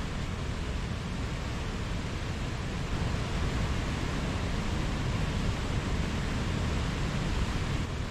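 Mountain stream flowing: a steady rush of water, a little louder from about three seconds in.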